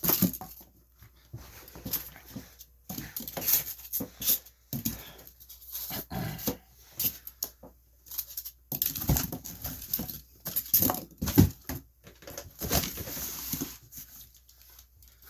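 Cardboard box and packing material being handled and moved: irregular rustling, crinkling and scraping.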